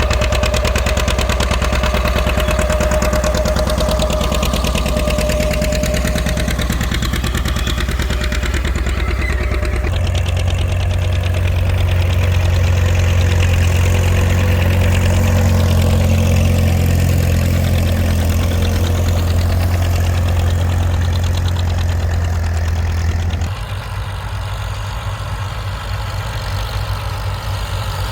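Farm tractor engines running steadily. The engine note changes abruptly about ten seconds in, and again about twenty-three seconds in, where it turns quieter.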